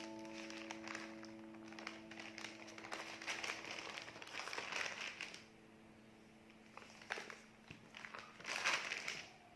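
Crinkling and rustling handling noise in uneven bursts, louder around the middle and again near the end, over a held background music chord that fades out.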